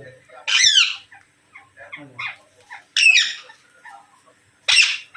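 Green parrots screeching: three loud, harsh calls with sweeping pitch, about half a second in, at about three seconds, and near the end.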